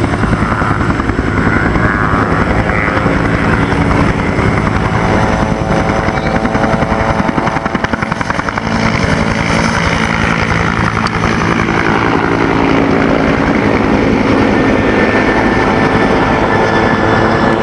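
Helicopter rotor and turbine engine sound, loud and steady, with a brief dip in loudness about eight seconds in.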